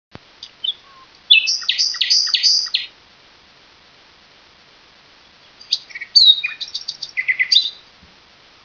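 Orange-bellied parrot calling: two bouts of quick, high chirps, the first about half a second in and the second about six seconds in, with a quiet gap between.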